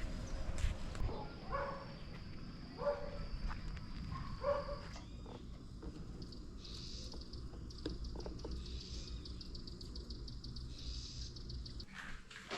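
Animal sounds: three short calls about a second and a half apart, then a long, rapid, high-pitched trill, over a low steady rumble.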